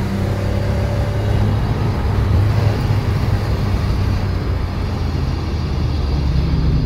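BMW M3's engine and tyre and road noise heard from inside the cabin while it is driven at speed, a steady low drone.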